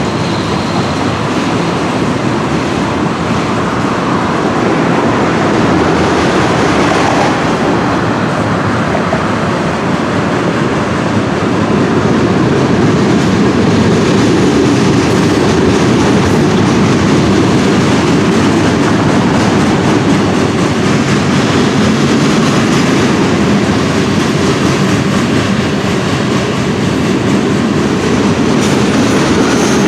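Freight train cars rolling past close by, a continuous loud rumble of wheels on rail that grows a little louder over the first dozen seconds and then holds steady.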